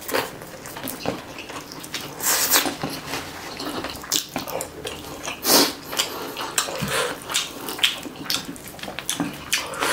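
Wet chewing and lip-smacking of a person eating chicken and rice by hand, with many irregular short smacks and clicks.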